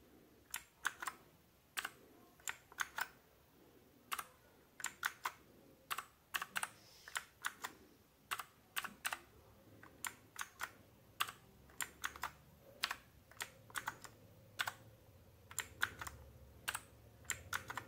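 RK61 60% mechanical keyboard with clicky blue switches, keys pressed one at a time in an uneven string of sharp clicks, many heard as quick double clicks, as each key is tested.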